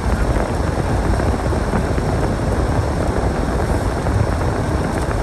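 Steady storm wind buffeting the microphone: a continuous low rumble and rushing noise that never lets up.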